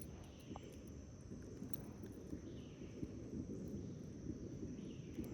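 Faint outdoor background: a steady high insect drone over a low rumble, with a few faint ticks.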